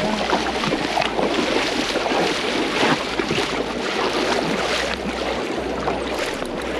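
Steady rush of wind and water around a small boat, with wind buffeting the microphone.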